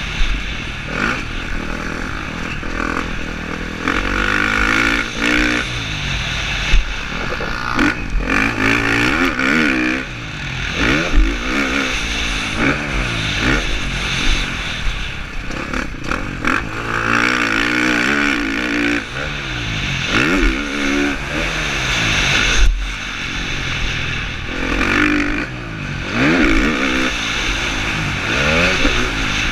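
KTM 350 SX-F four-stroke single-cylinder motocross engine revving hard and dropping back again and again as it is ridden through the gears around a track. A rumble and occasional clatter and knocks run beneath it.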